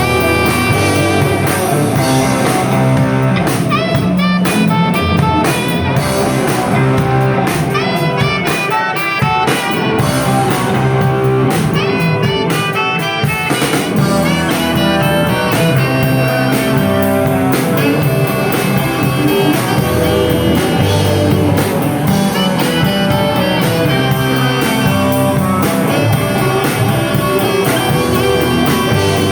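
Rock band playing live: an electric guitar lead with bending, sliding notes over bass and drum kit.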